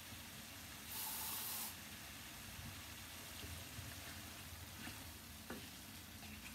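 Cubes of potato and turnip frying in a pan, giving a faint steady hiss, with a louder hiss for under a second about a second in. Later a wooden spatula stirs them, with a few light knocks on the pan.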